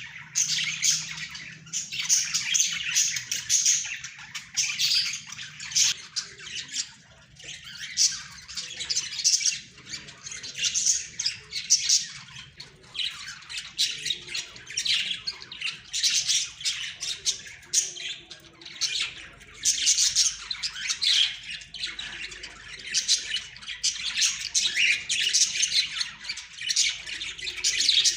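A flock of budgerigars chattering, with quick high chirps and squawks overlapping without a break.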